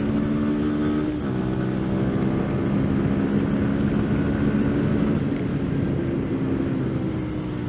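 CFMoto Papio motorcycle's small single-cylinder engine running under way, over a hiss of wind and wet road. The engine note drops sharply about a second in, as at a gear change, then holds steady and sinks slowly near the end as the bike eases off.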